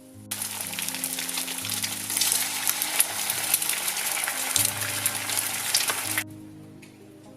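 Food sizzling and crackling in a hot frying pan, over soft background music. The sizzle starts suddenly just after the start and cuts off suddenly about a second before the end.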